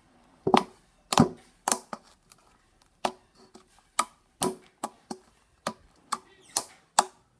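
Foamy slime being squished and pressed by hand, giving about a dozen sharp, irregular pops and clicks.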